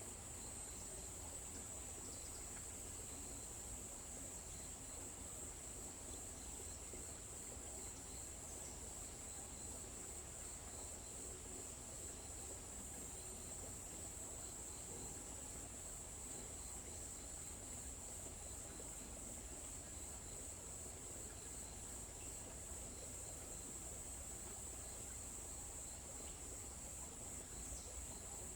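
Steady, high-pitched trilling of an insect chorus, crickets or similar, with a faint low rumble underneath.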